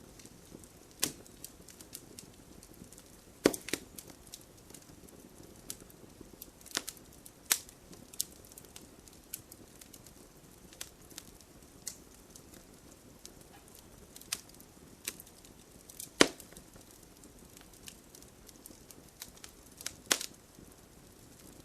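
Wood fire burning in a fireplace: a low steady hiss of flames with irregular crackles and sharp pops of burning logs, the loudest about three and a half seconds in, and again near sixteen and twenty seconds in.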